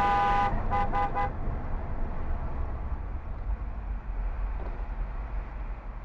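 Vehicle horn held for about half a second, then three short honks in quick succession, followed by a steady low rumble of road and engine noise.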